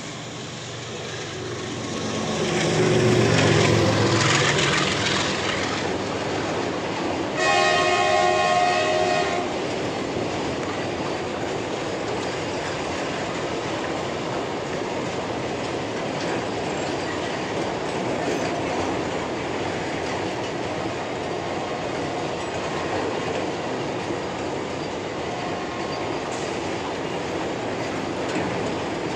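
A GE WDG-4G diesel freight locomotive runs past with a loud engine rumble, and its horn sounds once for about two seconds. Then the double-stack container wagons roll by with a steady clickety-clack of wheels over the rail joints.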